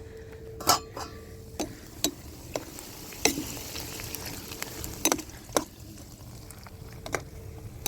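A spoon stirring in a cooking pot, knocking against its side in about eight sharp, irregular clinks.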